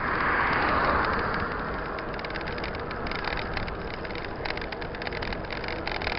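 Mountain bike riding noise: tyres rolling over a rough dirt track with many small rattles and clicks, and a louder rush of noise swelling up in the first second or two.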